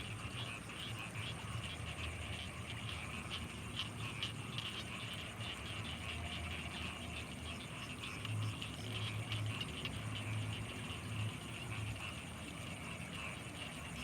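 Night chorus of frogs and insects: a dense, rapidly flickering trill at a mid-high pitch over a steady thin high whine, with low croaks pulsing in groups, loudest a little past halfway.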